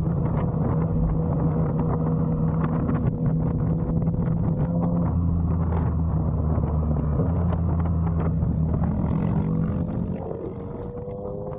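Motorcycle engine and exhaust running at a steady cruise with some wind noise, easing off and getting quieter about ten seconds in.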